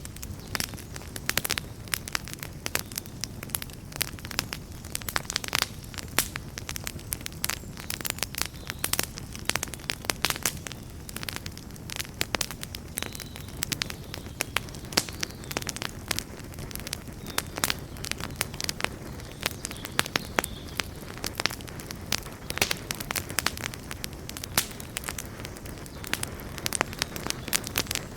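Wood campfire burning, with dense irregular crackles and pops over a steady low rush of the flames.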